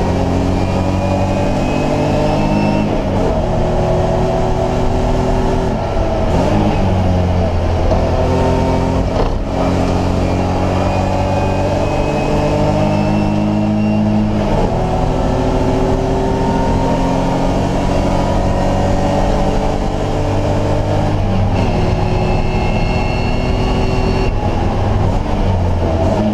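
BMW E30 race car's engine heard from inside the cockpit at racing speed. Its pitch climbs steadily and drops sharply at each gear change, several times over.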